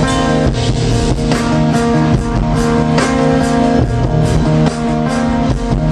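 Live rock band playing a song's instrumental opening: guitars holding sustained chords over a steady drum beat.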